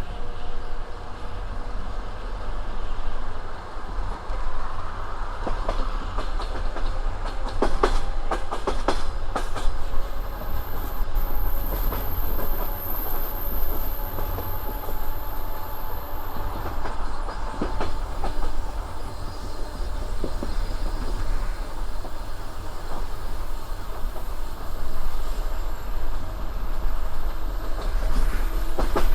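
Passenger train cars running along the track: a steady low rumble with the clickety-clack of wheels over rail joints. A cluster of knocks comes about eight seconds in, and another near the end.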